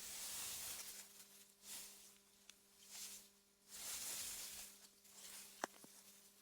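AI-generated wind through meadow grass: soft, hissing gusts that swell and fade several times, over a faint steady low hum. A single sharp click comes near the end.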